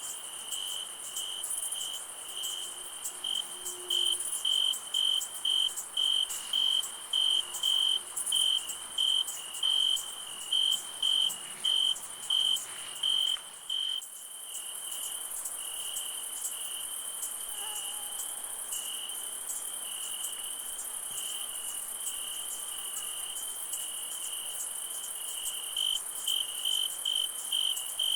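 Night insects, crickets, chirping in a steady rhythm of about two chirps a second. About halfway through the chirps merge into a continuous trill, and the pulsing returns near the end. A steady high-pitched insect hiss runs beneath.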